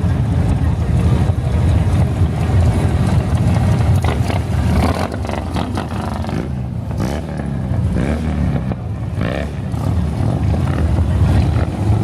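A convoy of many motorcycles passing in a continuous stream, their engines making a steady, loud low rumble with no gaps.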